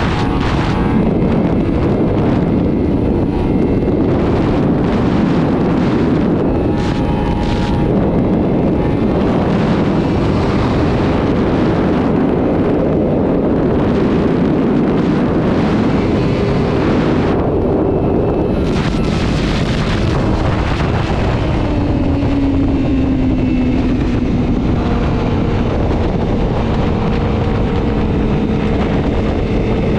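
Sport motorcycle running at speed under heavy wind rush on the microphone. The engine note drops a little about two-thirds of the way through, then holds steady.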